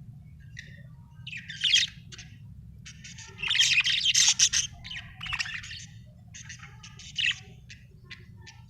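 Budgerigar chirping in several bursts of quick high notes, the longest and loudest about three to four and a half seconds in, over a steady low hum.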